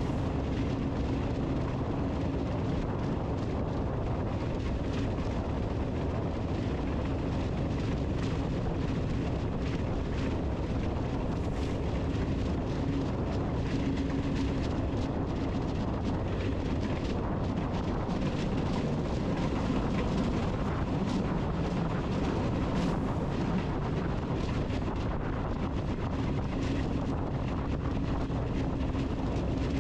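A steady mechanical hum with a faint tone that wavers slightly, under an even rushing noise like wind.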